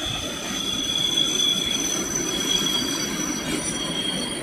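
Train wheels squealing on the rails: a steady high-pitched squeal over the rumble of the rolling train, thinning out near the end.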